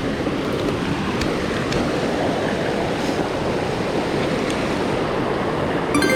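Mountain stream rushing steadily. A brief clicking near the end.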